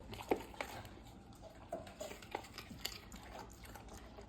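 Dogs eating: faint wet chewing and smacking with scattered small clicks.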